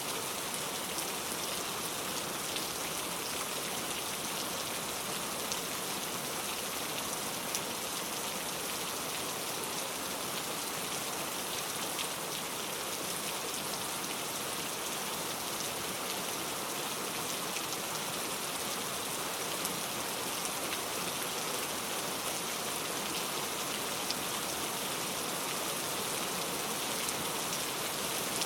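Steady rain falling, an even hiss with scattered clicks of individual drops striking a surface, without thunder.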